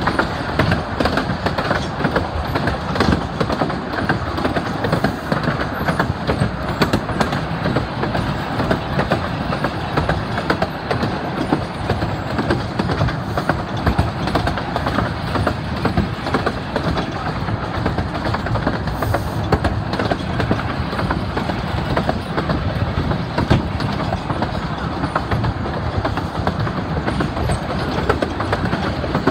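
Miniature-railway passenger carriages running along the track, their wheels clattering steadily over the rails, heard from beside an open carriage window.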